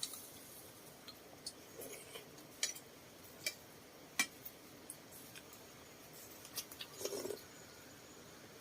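Tableware at a shared meal: scattered light clicks and clinks of eating utensils against bowls and dishes, with a short duller knock about seven seconds in.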